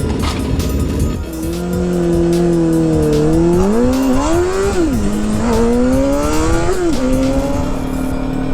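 A vehicle engine accelerating: its pitch climbs, drops suddenly as it shifts up a gear, climbs again and drops at a second shift, then holds steady.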